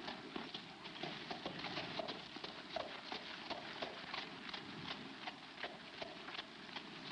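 Rapid hoofbeats of a horse running, a quick irregular clatter of several hooves a second over the steady hiss of an old film soundtrack.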